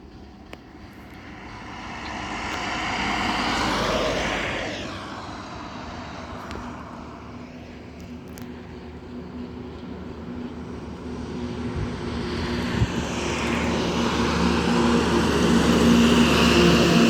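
Trucks driving past on a road. One passes about four seconds in, its noise swelling and then falling in pitch as it goes by. Another truck's engine then grows steadily louder toward the end.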